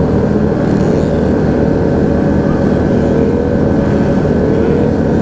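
Motorcycle engines running steadily on the move during a group ride, with small rises and falls in pitch as the throttle shifts.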